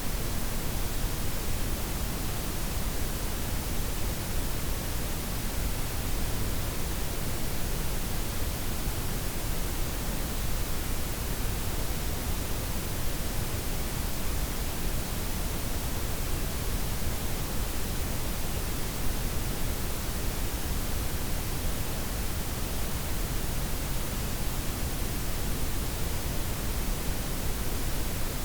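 Steady layered synthetic noise, a blend of softened white, pink and brown noise, an even hiss weighted toward the low end with no changes or events.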